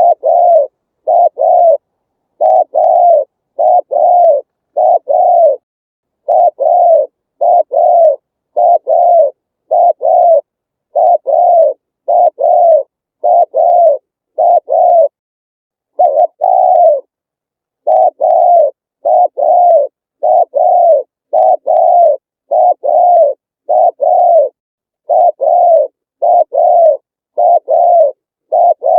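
Spotted dove cooing over and over, each coo a short, low, hooting note, coming in quick runs of two to four notes with short pauses between runs.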